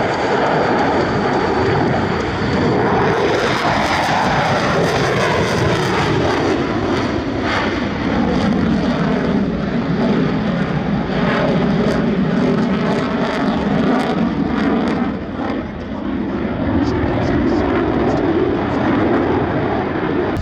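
F/A-18 Super Hornet jets flying a display pass, their engines loud and continuous. The engine sound sinks in pitch over the first several seconds, holds low, fades briefly about fifteen seconds in, then swells again.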